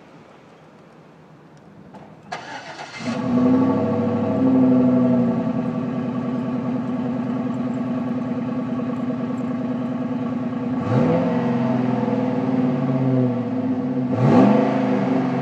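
2010 Chevrolet Silverado's engine cranking and catching about two seconds in, then idling through a dumped exhaust cut short under the truck. The engine is revved in two short blips near the end.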